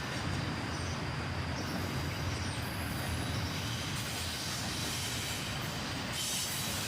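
Intermodal freight train cars rolling past: a steady low rumble of wheels on the rails.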